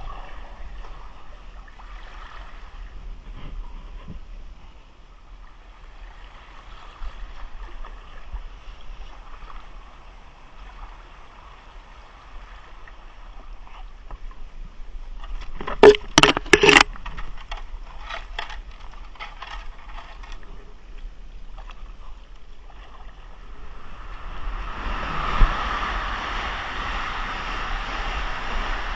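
Water sloshing and gurgling around a kayak as it is paddled. A quick run of loud, sharp knocks a little past halfway. A louder rushing noise builds near the end.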